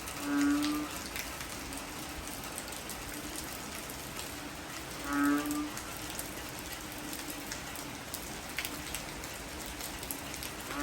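Heavy rain falling steadily. A short, low pitched call sounds twice over it, once near the start and once about halfway, roughly five seconds apart.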